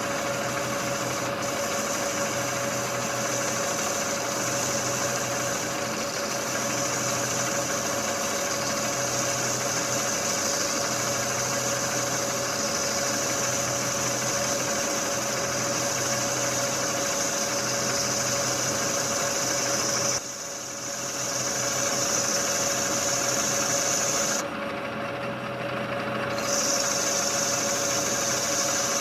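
Metal lathe running steadily while a cutting tool turns a steel wheel blank, a constant motor hum with a high hiss from the cut. The sound dips briefly about twenty seconds in and again near the end.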